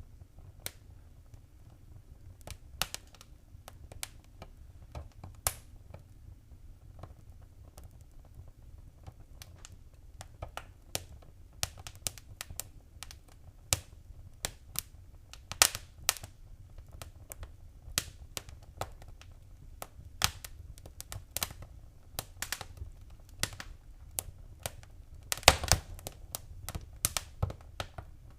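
Wood fire in a fireplace crackling, with irregular sharp pops and snaps over a low steady rumble. A quick cluster of pops near the end is the loudest.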